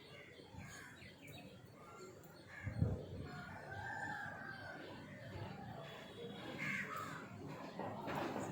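Birds calling several times, including a longer held call, with a single thump about three seconds in.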